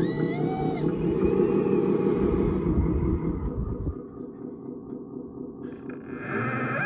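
Electric motors of RC construction machines running under load: a low rumble for the first half, fading about halfway through, with a motor whine that rises, holds and drops at the start and rises again near the end.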